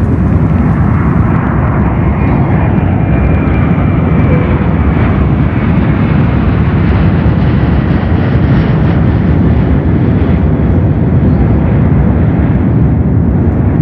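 Airbus A330-300's Pratt & Whitney PW4168A turbofan engines at takeoff power: a loud, steady, deep roar. The higher hiss above it drops away about a second in.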